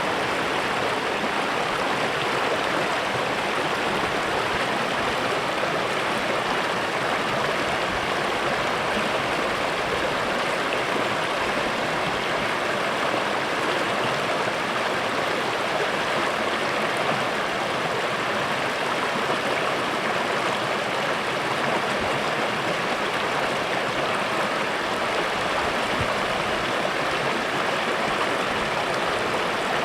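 Small stream running over rocks: a steady, even rush of water.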